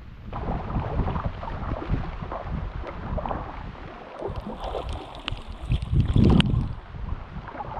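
Paddle strokes splashing and gurgling in lake water, with gusts of wind buffeting the microphone, the strongest gust about six seconds in.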